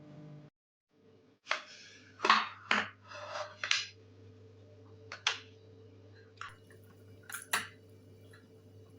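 Eating and food-handling sounds: a run of short chewing and squishing noises, then scattered sharp clicks, over a low steady hum.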